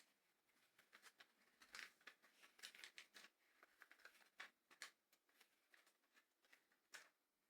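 Faint, irregular clicks and rustling of plastic LEGO pieces being handled and pressed together, with a denser run of small clicks in the middle.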